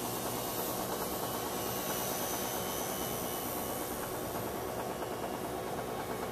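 Blade mCP X BL micro RC helicopter in flight: the steady whine of its brushless main motor and spinning rotor blades, with several even tones over a hiss.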